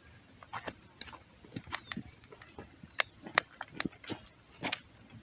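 Freshly lit campfire of sticks and tree bark crackling as it catches, with irregular sharp pops, the loudest about three seconds in.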